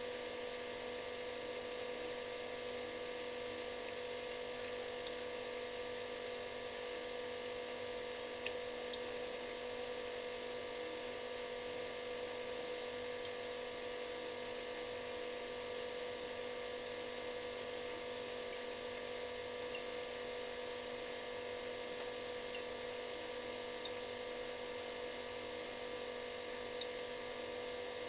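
Refrigerator running with a steady electric buzz and hum, one strong mid-pitched tone over a constant hiss, with a few faint ticks.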